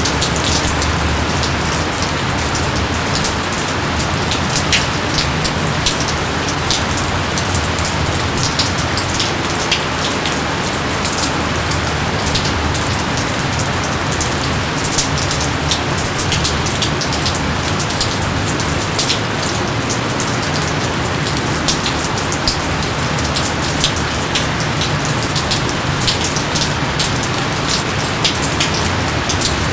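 Steady, loud rain, with many individual drops ticking sharply on nearby surfaces throughout.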